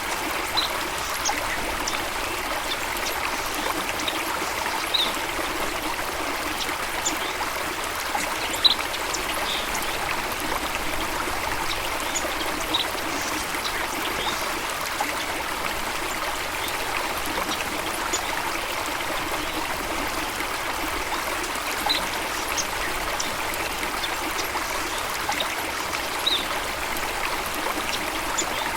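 Steady rushing of running water, with short, high bird chirps scattered through it every few seconds.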